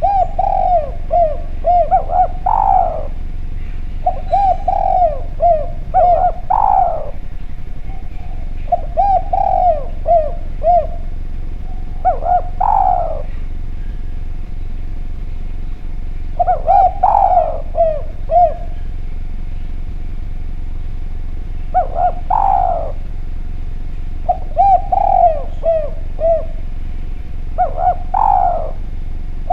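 Spotted dove (derkuku) cooing repeatedly, in phrases of several quick coos that end in a louder, longer note, one phrase every few seconds. Faint higher chirps sound above it.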